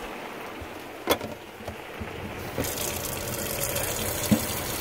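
A single click about a second in, then a steady rushing of water that starts a little past halfway: a container being filled with water from the RV's tap.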